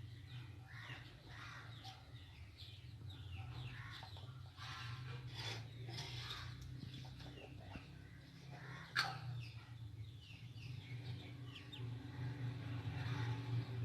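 Birds chirping and calling in short repeated notes over a low steady hum, with one sharp click about nine seconds in.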